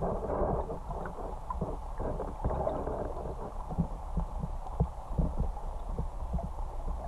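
Muffled low rumble with irregular soft knocks and thumps, as heard through a camera underwater.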